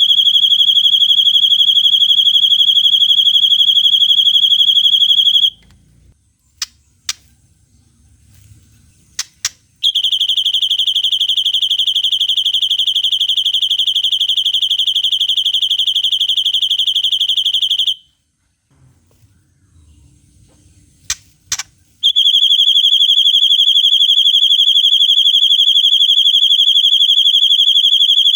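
Songbird recording playing a long cililin-style trill: a very fast, even trill held on one high pitch, in three long stretches broken by short pauses. A few brief sharp chirps fall in the pauses, about a second and two-thirds of the way in.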